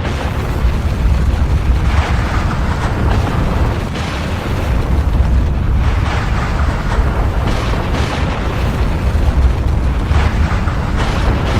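Volcanic eruption: a continuous deep rumble, with short blasts breaking through every one to three seconds.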